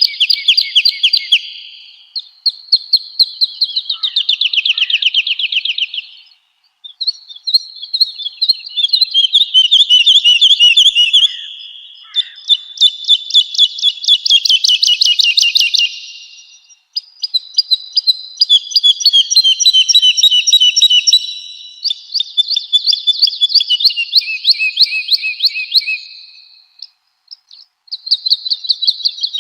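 Woodlark singing: a run of phrases, each a fast string of repeated notes lasting a few seconds, with short pauses between them and several phrases dropping in pitch toward their end.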